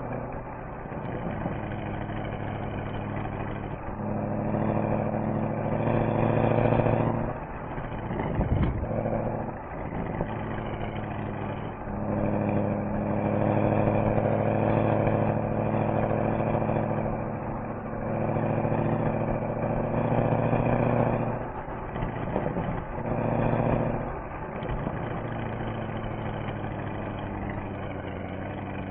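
Mercedes-AMG SL63's V8 engine and exhaust while driving, the engine note swelling several times as the throttle opens and easing off between.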